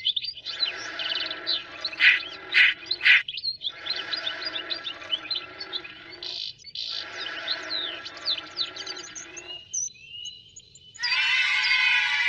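Birds chirping and twittering: many short chirps sliding up and down, over a steady lower background. About eleven seconds in, a louder sustained sound made of many steady tones starts.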